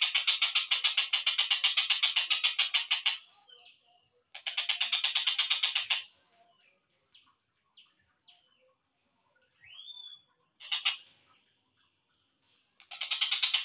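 Slowed-down recording of a tengkek buto kingfisher's trilling call: long runs of fast, evenly repeated notes. It breaks off twice, and in the longer pause there are a few faint short chirps and one rising whistle before the trill starts again near the end.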